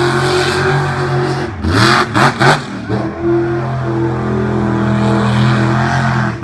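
Mega truck engine held at high revs. About two seconds in the revs drop and climb back through a few sharp knocks, then hold steady and high again.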